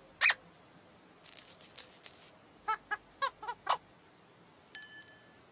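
Playful musical sound effects: a short chirp, then a rattle shaken for about a second, then five quick pitched notes, and near the end a bright bell-like chime that rings and fades.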